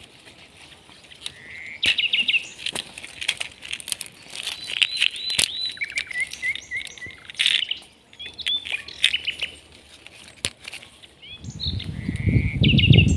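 Small birds singing: repeated chirping phrases and trills, with scattered sharp clicks. From about 11 seconds in, a louder low rustling of leaves and vines takes over.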